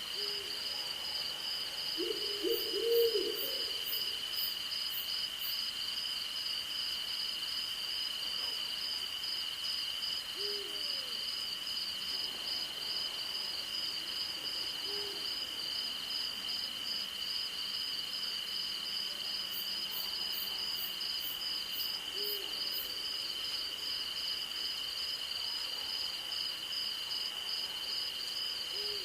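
An owl giving short low hoots every few seconds, with a louder run of several hoots about two to three seconds in. Under it runs a steady chorus of crickets and other insects, one of them trilling in even pulses.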